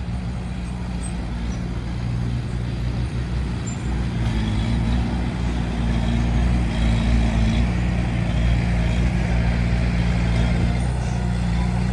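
Bulldozer's diesel engine running steadily under load, a deep even drone that grows louder about four seconds in as the machine works harder.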